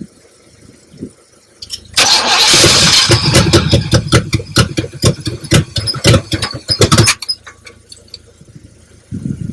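The 455 V8 of a long-dormant 1972 Buick Riviera cranking and sputtering as it tries to fire, loud and ragged with irregular pops for about five seconds, then dropping away suddenly.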